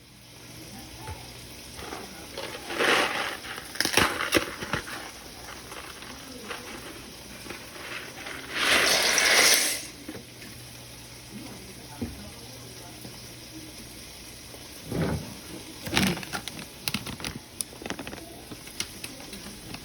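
Kitchen cooking sounds: scattered knocks and clatter of cookware and utensils over a low steady hum, with a short burst of running water about nine seconds in.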